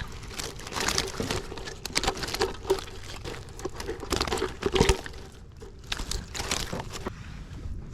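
Irregular crinkling and rustling handling noise, dense and uneven.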